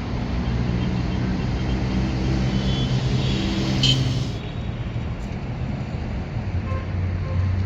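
Vehicle engine running amid road traffic noise, its hum settling lower about halfway through, with a brief sharp high squeak about four seconds in.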